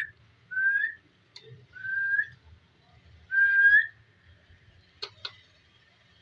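Three short whistles, each sliding up and levelling off on a held note, about a second and a half apart. Two sharp clicks follow, about five seconds in.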